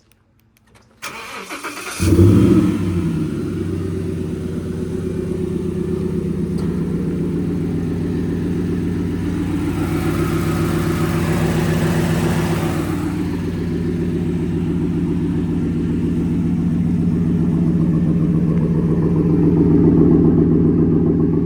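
The Roush-supercharged 6.2-litre V8 of a 2013 Ford F-150 SVT Raptor is started. The starter cranks about a second in and the engine catches with a loud flare, then settles into a steady, deep idle.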